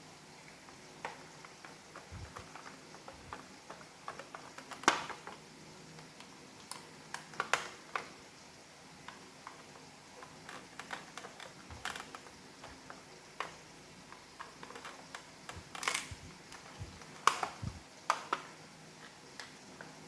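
Irregular small plastic clicks and taps as the parts of an iRobot Roomba's dust bin are handled and fitted together, with a few louder clicks among them.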